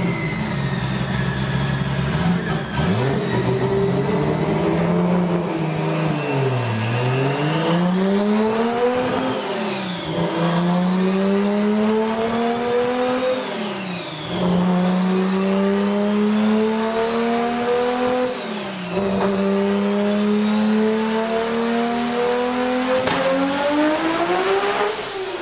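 Turbocharged Toyota Supra engine in a full-throttle pull on a chassis dyno, revs climbing in each gear and dropping sharply at four shifts. Near the end it revs up steeply into a high whine as the rear tyres spin and smoke on the rollers.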